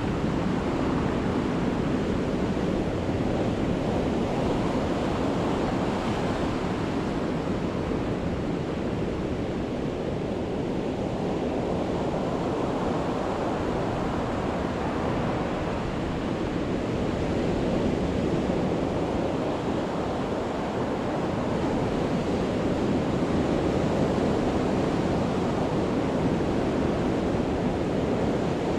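Sea waves breaking on the beach: a continuous surf wash that swells and eases slowly as each set of waves comes in.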